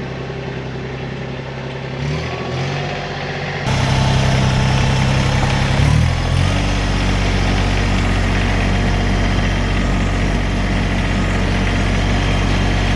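New Holland Workmaster 25S compact tractor's diesel engine running. Its engine speed steps up about two seconds in and shifts again about six seconds in, then holds steady. The sound gets louder from about four seconds in.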